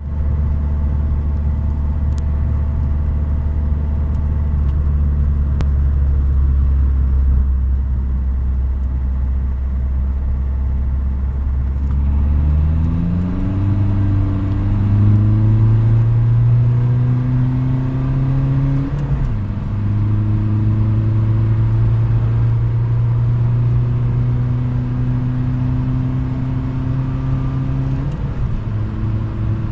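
Peugeot 206 1.4 HDi four-cylinder turbodiesel, straight-through exhaust with the catalyst and muffler removed, accelerating hard through the gears. A steady low drone gives way to long climbs in engine pitch, each broken by a sudden drop at a gear change, once past the middle and again near the end. The worn clutch slips under the remapped torque in third gear.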